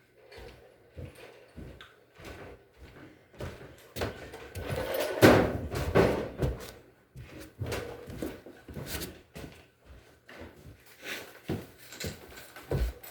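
Irregular knocks and clunks of parts and tools being handled, louder and busier from about four to seven seconds in.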